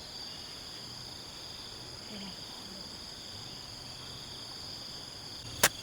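Steady insect chorus, a continuous high shrilling of several pitches, with one sharp click near the end.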